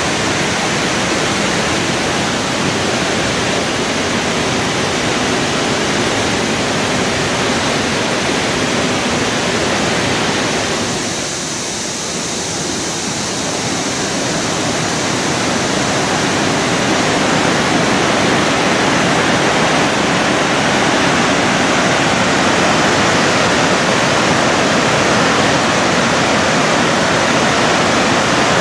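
Thi Lo Su waterfall: a loud, steady rush of falling water, easing off briefly about eleven seconds in and then coming back a little stronger.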